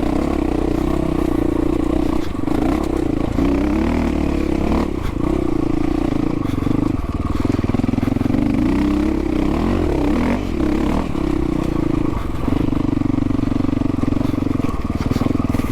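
Dual-sport motorcycle engine running while riding a dirt trail, its pitch rising and falling with the throttle a few seconds in and again about two thirds of the way through.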